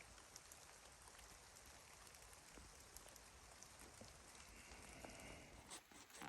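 Faint rain falling, with scattered individual drops ticking.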